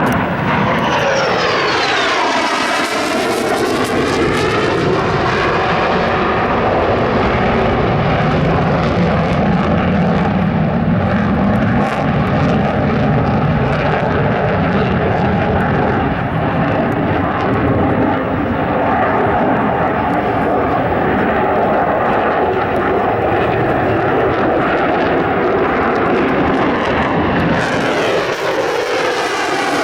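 F-35A Lightning II's single afterburning turbofan jet engine sounding loudly through a flying display pass. A falling sweep in pitch marks the jet going by in the first few seconds, then a long steady roar, and a rising sweep near the end as it comes in again.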